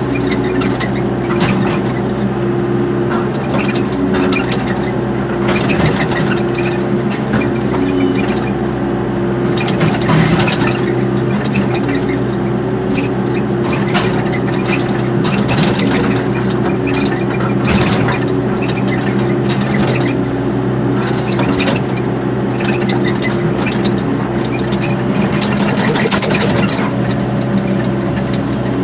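Excavator's diesel engine running steadily under load, with irregular knocks and clatter throughout from the machine at work.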